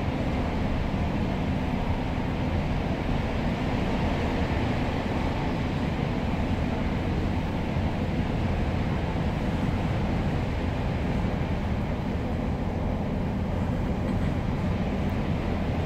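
Cabin sound of a Class 142 Pacer diesel railbus under way: a steady low rumble from its underfloor diesel engine and wheels on the rails, unchanging throughout.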